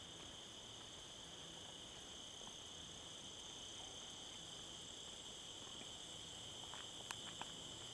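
Steady, continuous chorus of insects such as crickets, a faint unbroken high-pitched drone, with a couple of small clicks about seven seconds in.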